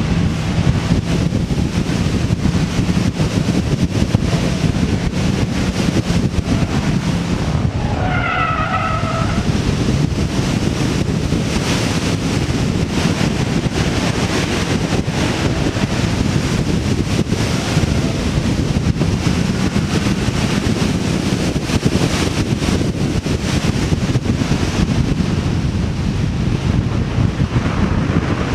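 Street-class car's engine running hard, with tyre and wind noise, as it is driven on an autocross course. A short squeal comes about eight seconds in.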